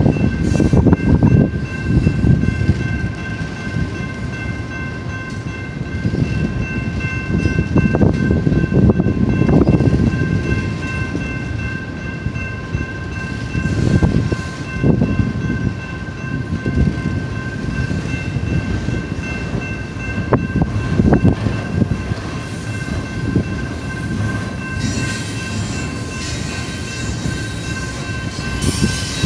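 Slow-moving BNSF double-stack container train rolling past: heavy wheel rumble and clatter on the rails, rising and falling in uneven surges. Over it a grade-crossing warning bell rings as a steady high tone, and a hiss joins near the end.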